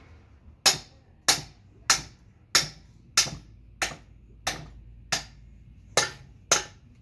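Hammer striking the steel of a welded grab: a steady run of about ten sharp blows, roughly one every two-thirds of a second, tapping a spot down on the weld repair.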